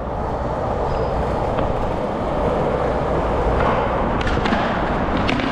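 Skateboard wheels rolling on concrete, a steady rumbling hiss, with a few sharp clicks in the second half.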